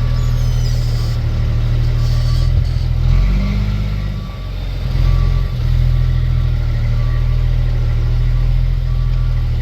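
Diesel truck engine, the M11 Cummins of an International 8100 dump truck, running steadily as heard from inside the cab, with a backup alarm beeping about once a second as the truck reverses. The engine note shifts and briefly dips about halfway through, then settles again.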